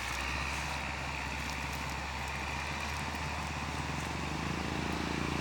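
An engine running steadily, its note growing a little stronger near the end.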